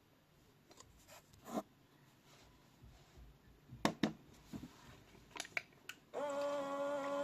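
Toy Miele W1 washing machine: a few sharp clicks and ticks, as from its buttons or dial being worked, then about six seconds in a steady pitched hum starts and holds.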